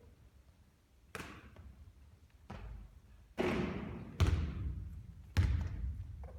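A basketball thudding and bouncing: about five hard hits, the later three loudest, each ringing out with a long echoing tail.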